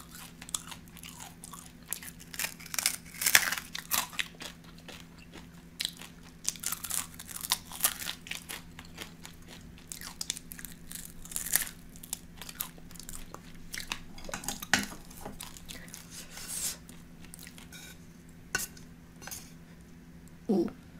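Close-miked chewing and crunching of crispy oven-fried chicken wing: irregular crackly crunches and wet mouth sounds. A steady low hum runs underneath.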